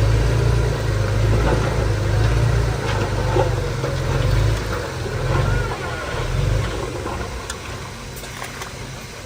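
Heavy construction machine's diesel engine running, its low rumble swelling and easing, then fading somewhat toward the end.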